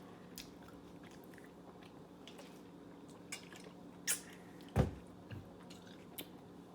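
Someone chewing soft Mamba fruit chews, with scattered small mouth clicks and two louder sharp clicks about four and five seconds in, over a faint steady hum.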